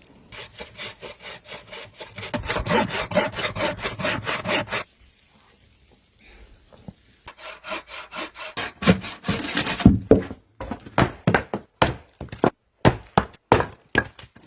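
Hand saw cutting through wood in quick, rhythmic back-and-forth strokes, about four or five a second. The sawing pauses for a couple of seconds midway, then starts again, and near the end the strokes come slower and sharper.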